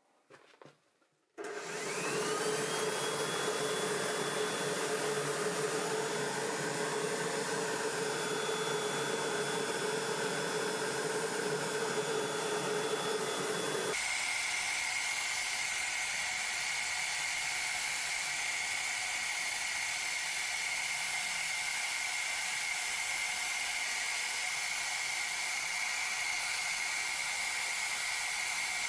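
Electric blower switched on, whining up to speed and then running with a steady whir. About halfway through the sound changes abruptly, the low part dropping away and a higher steady whine taking over.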